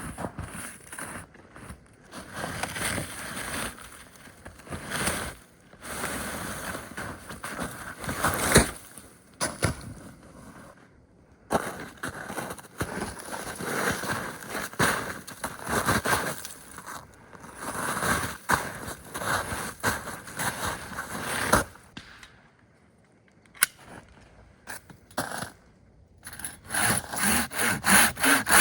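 Wood being scraped and rubbed in irregular strokes, then, after a short quieter spell, a saw cutting wood near the end with quick, regular strokes.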